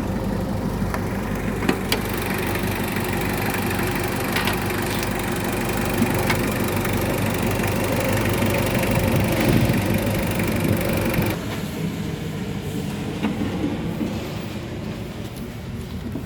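Mitsubishi 4D56 four-cylinder diesel engine idling steadily, with a few light clicks; the higher hiss drops away about eleven seconds in while the low engine note carries on.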